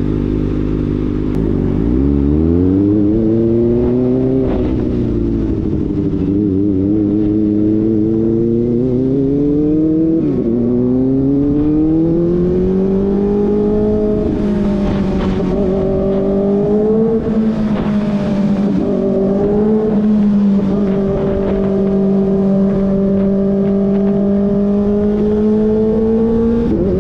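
Kawasaki ZX-4RR's inline-four engine through an SC-Project slip-on exhaust, pulling up through the gears: the pitch climbs and drops back at two upshifts, then settles into a steady cruise for the second half.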